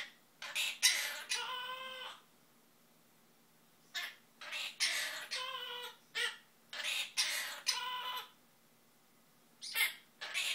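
Quaker parrot (monk parakeet) vocalizing in a high, warbling voice. It gives several mimicked, song-like phrases, each a second or two long, with short pauses between them.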